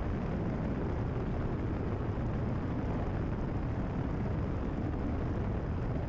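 Cessna 172RG's engine and propeller running steadily in flight, heard from inside the cockpit as an even low rumble.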